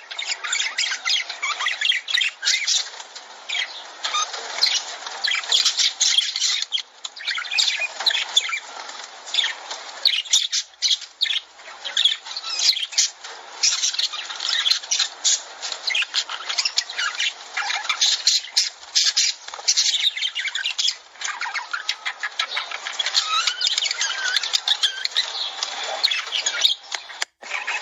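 Lovebirds chattering, with many overlapping sharp chirps and squawks and a brief break near the end.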